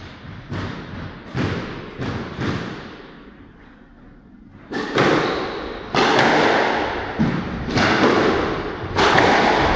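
A squash rally: the ball is struck by rackets and slams into the court walls in a series of sharp thuds with an echoing ring. There is a short lull about three seconds in, then harder, louder hits follow.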